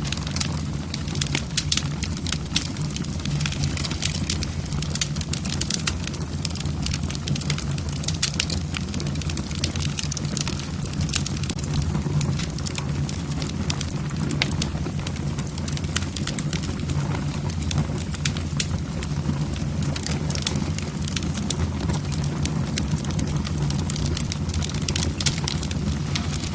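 Wood logs burning in a fireplace, crackling with many sharp, irregular pops over a steady low rumble of the flames.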